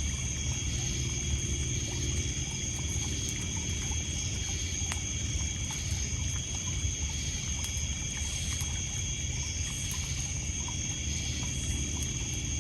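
Night lakeside ambience: a steady high chorus of crickets and other insects over a low wash of water lapping on a pebble beach. Occasional sharp crackles and pops come from a wood campfire.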